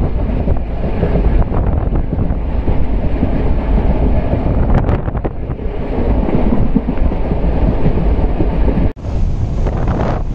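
Passenger train running on the track, heard from on board: a steady rumble and rattle of wheels on rails, with wind buffeting the microphone and a few sharper clanks about five seconds in.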